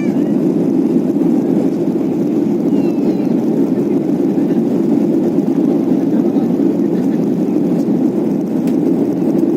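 Steady drone of a Boeing 737 in flight, as heard inside the passenger cabin: jet engine and airflow noise at an even level.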